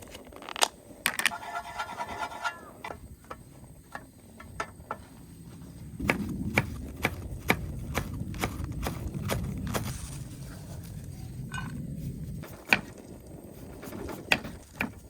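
Repeated scraping and rubbing on wood, broken by many sharp taps and knocks.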